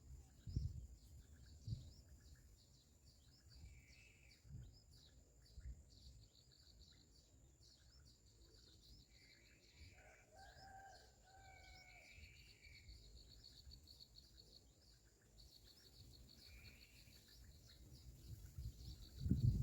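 Faint bird calls: a few short calls scattered through, with a clearer run of notes around the middle, over a steady, fast, high chirring of insects or distant birds. Low thumps of wind or handling on the microphone come near the start.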